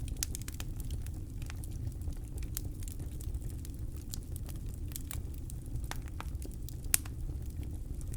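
Campfire burning with irregular crackles and sharp pops over a steady low rumble of the flames, one pop near the end standing out loudest.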